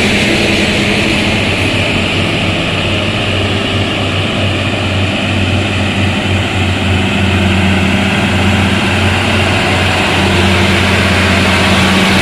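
Heavy truck engine running with a steady low drone, as on a climb up a steep grade.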